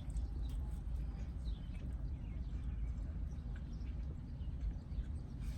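Close-miked chewing of a steak, egg and cheese bagel: scattered wet mouth clicks and smacks over a low steady rumble.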